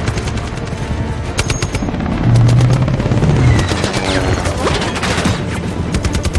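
Rapid automatic gunfire in two bursts, over a film's orchestral action score.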